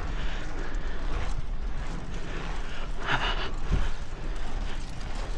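Wind rumbling on the microphone of a moving bicycle, with a short hissing burst about three seconds in.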